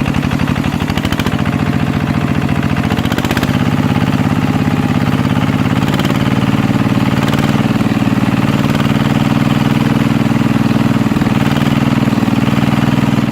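Small walking-tractor engine running steadily at an even speed, with rapid regular firing pulses.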